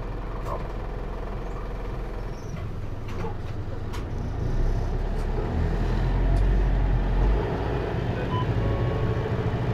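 Hino Liesse microbus's J05C four-cylinder diesel engine running, heard inside the cabin, growing louder about halfway through with a heavier low hum, with a few light clicks and rattles.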